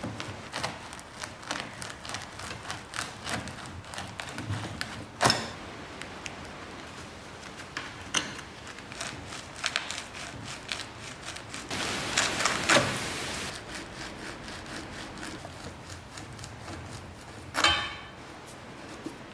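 Hand-tool workshop handling noises: many light clicks and taps, two louder sharp knocks (one about five seconds in, one near the end), and a short scraping stretch a little past the middle.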